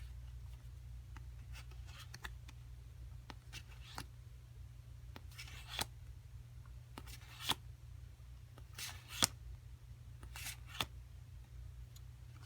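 Japanese Pokémon trading cards handled by hand: scattered soft clicks and short slides as the cards are moved and laid out, over a faint steady low hum.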